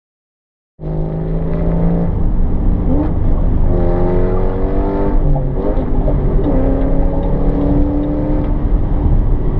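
Ford Mustang's straight-piped exhaust, loud engine note that cuts in abruptly about a second in, its pitch climbing and settling a few times as the engine is revved and pulls.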